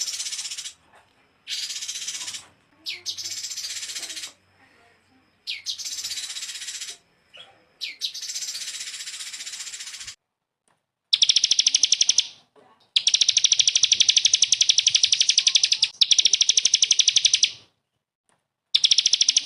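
A small songbird singing high, rapid-fire 'tembakan' trills in bursts of one to three seconds with short gaps between them. About ten seconds in, the trills change to a steadier, more even buzzing rattle.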